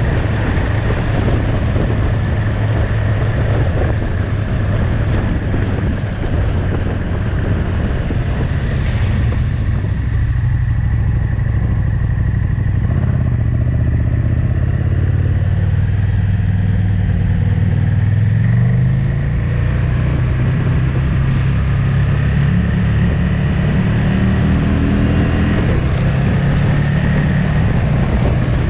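Motorcycle engine running under way with wind rush; the engine note climbs in pitch a couple of times in the second half as the bike accelerates.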